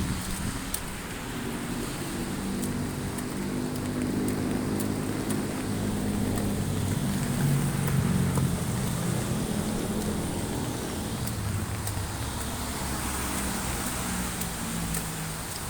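A motor vehicle's engine running close by in the rain, a low hum that swells to its loudest about eight seconds in and fades near the end, over the steady hiss of rain.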